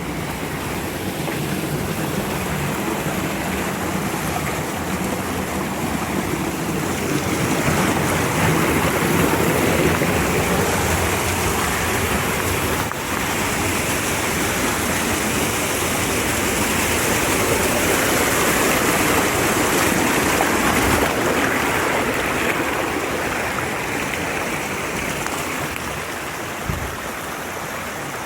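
Mountain stream water rushing and splashing over rocks, a steady, loud rush that swells a few seconds in.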